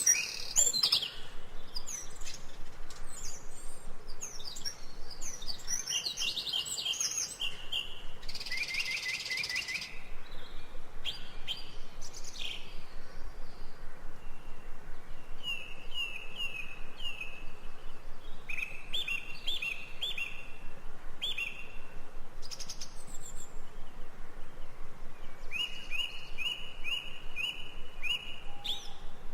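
Several birds singing and chirping, with short repeated phrases and trills.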